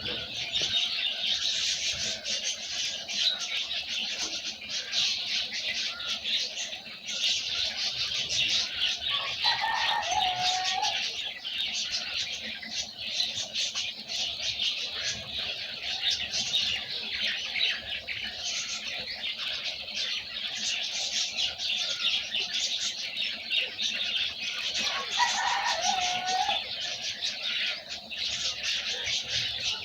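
Many small birds chirping and twittering together in a dense, unbroken chorus of high calls. A lower, different call cuts in twice, about a third of the way in and again near the end.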